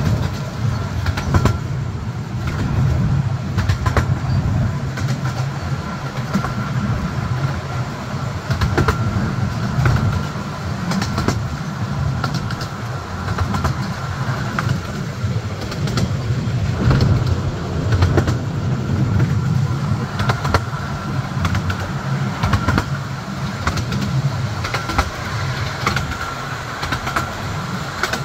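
15-inch gauge miniature railway carriage running along the track: a steady low rumble with irregular clicks of the wheels over the rails and a faint steady whine, heard from an open carriage window.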